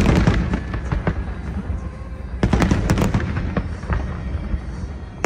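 Aerial fireworks bursting: a volley of sharp bangs and crackles at the start and another cluster about two and a half seconds in, over a continuous low rumble.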